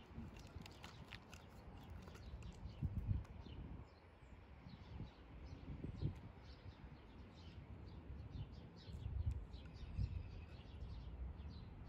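Small birds chirping and singing in short, quick, repeated notes. A few low rumbles on the microphone come about three seconds in and again around nine to ten seconds.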